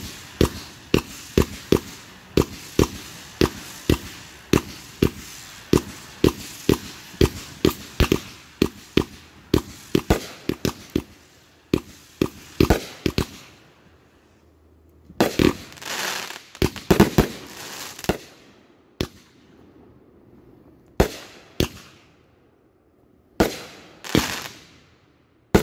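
Consumer fireworks going off in a fused show: a rapid, even string of sharp launch and burst reports, about two to three a second, for roughly the first half. After a short lull comes a dense cluster of bursts, then scattered single bangs a second or two apart.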